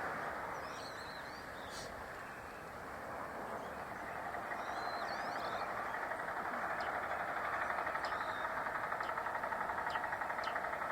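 A steady mechanical drone with a fast, even pulse, like an idling engine. A few short, high bird chirps come through about a second in and again around five seconds in.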